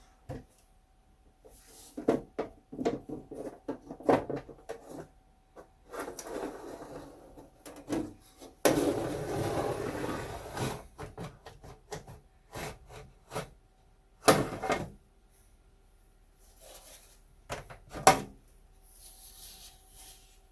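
Handling noise from opening up an HP 3458A multimeter's case on a bench. Scattered clicks and rubbing, about two seconds of scraping or sliding a little past a third of the way in, and two sharp knocks later on.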